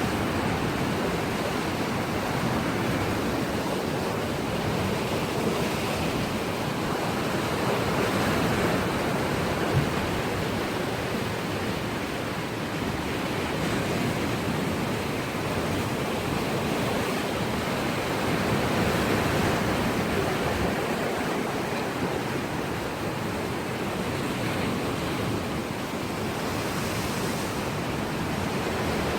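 Sea waves washing against a rocky shore in a steady, continuous rush that swells and eases slowly.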